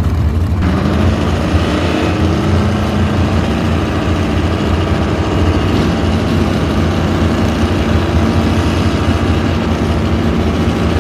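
Engines of two Stock Eliminator drag cars running loudly on the starting line, a deep steady rumble that picks up about half a second in as they are brought up for the launch.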